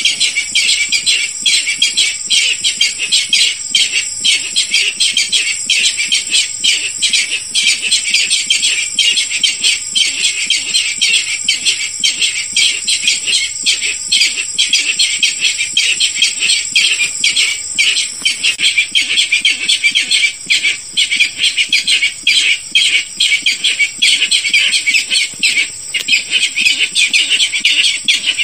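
Barred rail calling continuously in a dense stream of rapid, harsh repeated notes, a recording of the kind played as a hunting lure. A steady high-pitched tone runs underneath.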